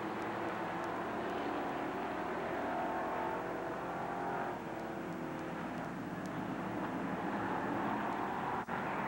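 Modified race car engines running steadily on the track, their pitch shifting a little partway through, with a brief dropout near the end.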